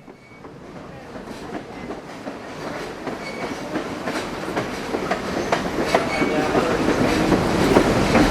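Train rolling along the track, its wheels clicking and clacking over the rail joints, growing steadily louder.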